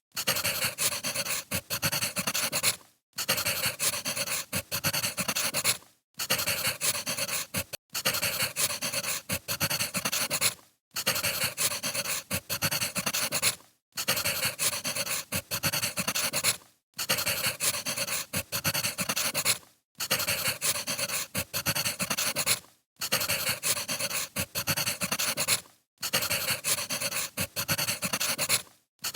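Crackling wood fire with dense pops and snaps, heard as a looped recording. The sound cuts out briefly about every three seconds, then resumes.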